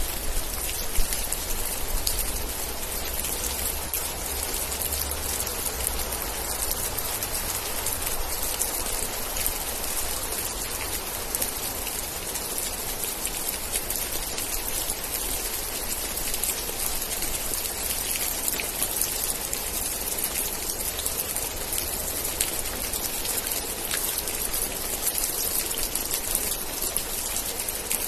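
Steady rain falling, a dense even patter of drops on surfaces, with a soft low rumble in the first few seconds.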